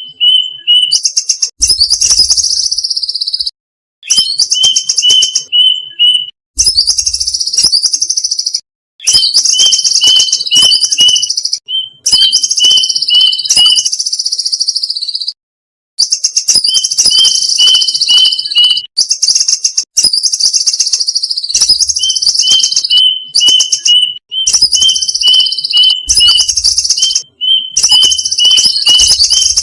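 Violet cuckoo calls: runs of quick, short, high notes, about four or five a second, over loud buzzy trills that fall in pitch. The runs stop dead several times and start again, as in a looped lure recording.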